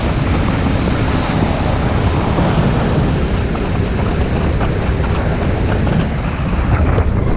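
Motorcycle riding along: the engine runs under a steady, loud rush of wind buffeting the microphone.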